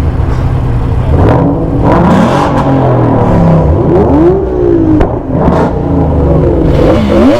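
Car engines being revved hard over a steady idle, the pitch climbing and dropping back about five times.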